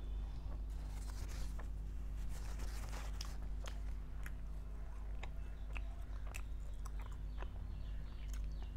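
Close-miked mouth sounds of a person biting and chewing garlic naan dipped in curry gravy: irregular small clicks and crackles throughout, over a steady low hum.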